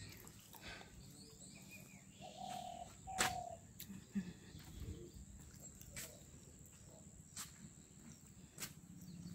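Quiet outdoor ambience with a few brief bird calls, two of them just before the middle, and scattered faint clicks.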